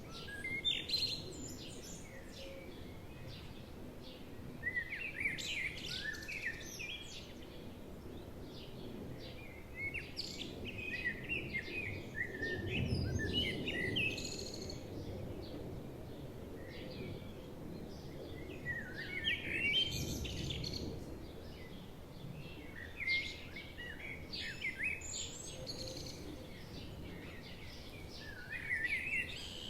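Songbirds singing short, fast chirping phrases that recur every few seconds, over a soft low background of forest ambience that swells briefly twice, about a third and two thirds of the way through.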